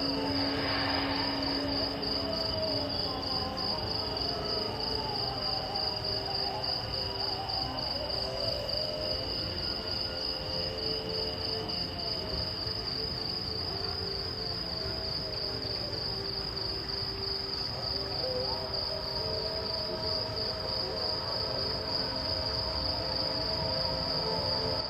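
A field recording of insects chirping in a steady, rapidly pulsing high trill, with faint wavering lower tones beneath it.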